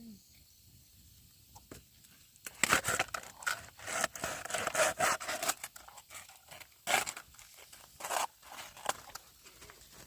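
Dry rustling and tearing with crinkly snips, in a dense stretch about two to five seconds in and then two short sharp bursts: something being cut or torn by hand.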